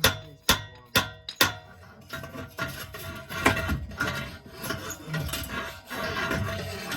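Metal being struck, three ringing blows about two a second, then scraping and rattling: the shell of a gutted catalytic converter being knocked and worked to free broken pieces of substrate still stuck inside.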